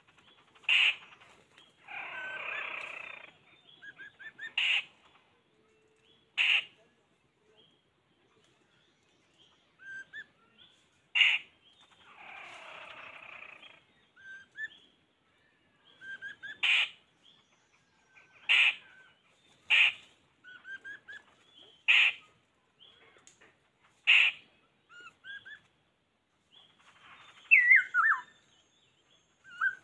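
Bird calls: short, sharp calls repeated every two seconds or so, with soft chirps between them. Twice a harsher rasping call lasts about a second, and quick whistled notes that slide up and down come near the end.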